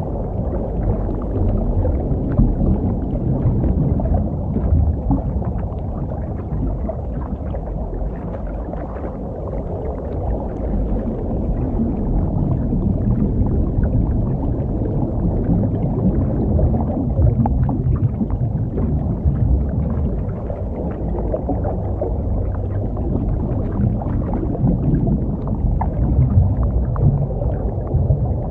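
Muffled underwater rumble picked up by a diver's camera during a scuba dive, steady with a slow rise and fall and faint crackling above it.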